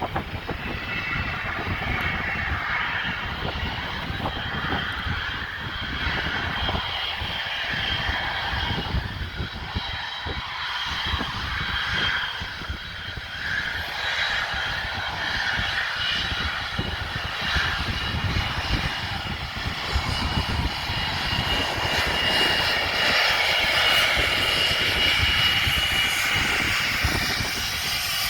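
Fixed-wing aircraft engine running steadily with a continuous whine and low rumble, growing a little louder in the last several seconds.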